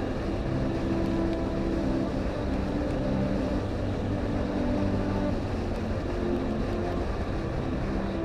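Solo keyboard improvisation: low, sustained chords and notes that shift every second or so.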